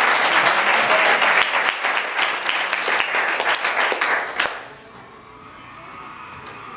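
Congregation applauding, dense clapping that dies away about four and a half seconds in, leaving a faint held musical tone.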